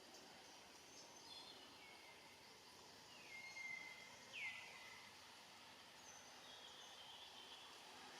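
Faint bird calls over a quiet outdoor background hiss. Strings of high whistled notes step down in pitch, and the loudest is a quick downward sweep about four and a half seconds in.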